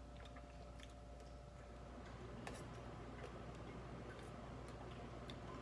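A person chewing food quietly: a few faint, scattered mouth clicks over a low steady hum.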